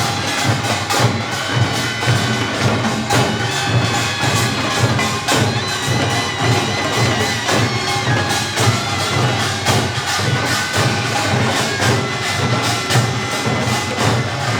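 Korean pungmul band playing a fast, dense percussion rhythm, with a wavering reedy taepyeongso shawm melody over it.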